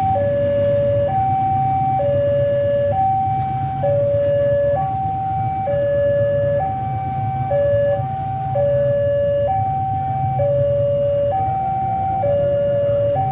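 Railway level-crossing warning alarm sounding its two-tone signal, a high note and a lower note taking turns, each just under a second, over a steady low rumble. The alarm warns that a train is approaching the crossing.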